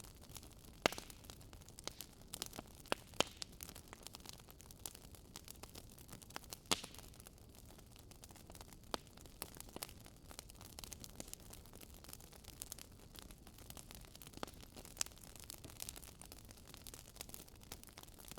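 Wood fire crackling, with irregular sharp pops over a low hiss; the loudest pops come about a second in, about three seconds in and near seven seconds.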